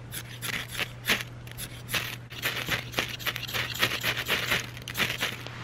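Ferrocerium rod (metal match) struck again and again with its scraper: a quick run of rasping scrapes, busiest in the second half. Sparks are being thrown onto shaved wood-based fire starter that has not yet caught.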